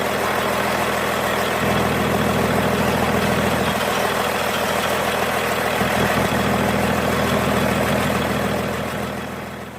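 Komatsu SA6D125-series six-cylinder diesel engine running steadily at idle on a ground test. The sound fades out near the end.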